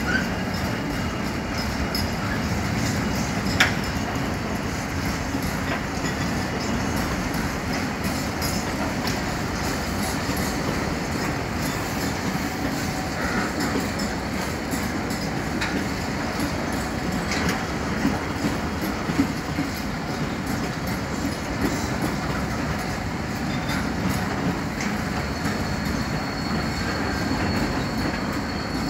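Intermodal container freight train's wagons rolling past, with a steady rumble and wheels clicking over rail joints. A thin high wheel squeal comes in near the end.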